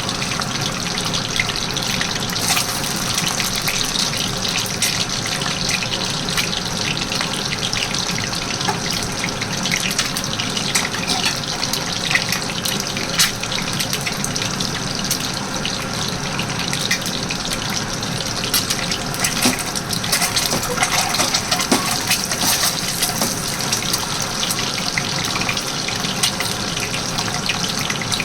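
Steady running water, with a few brief knocks over it.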